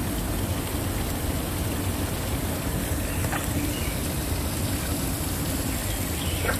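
Waterfall pouring steadily: a dense, even rush of falling water, heaviest in the low end. Faint short chirps can be picked out about three seconds in and again near the end.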